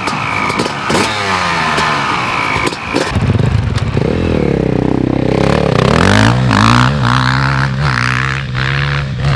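Motocross bikes revving hard as they pull away, the engine pitch rising and falling through gear changes, then holding a steady high-revving note over the last few seconds.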